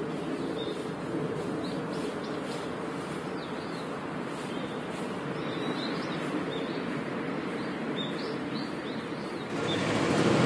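Small birds chirping in short, scattered calls over a steady outdoor background noise. About nine and a half seconds in, louder street traffic noise cuts in abruptly.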